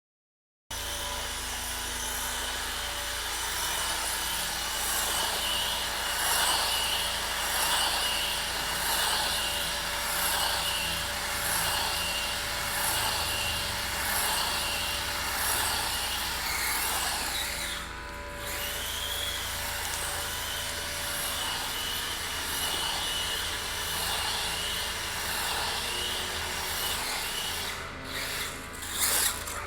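HSP radio-controlled monster truck running, its motor and gears whirring with a steady high whine. The sound dips briefly about two-thirds of the way through and cuts in and out a few times near the end.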